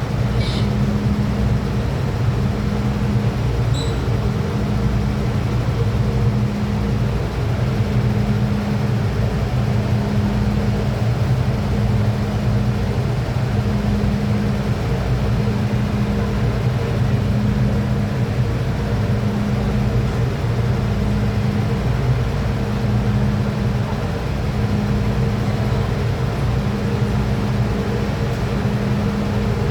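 MTR M-Train electric multiple unit heard from inside: a steady low rumble and hum, with a low tone cutting on and off about every two seconds.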